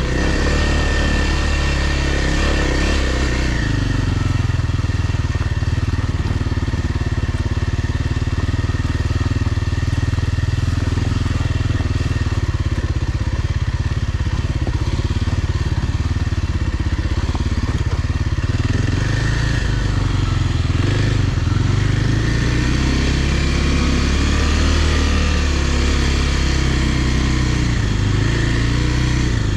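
Kawasaki dirt bike engine running steadily under way, its pitch rising and falling with throttle and gear changes, with clear shifts about three seconds in and again around twenty seconds.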